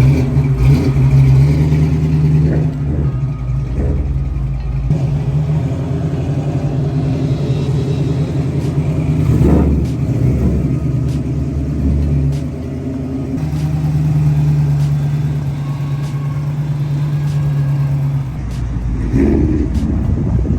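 Car engine and exhaust running with a deep, steady note, revved up and back down once about halfway through.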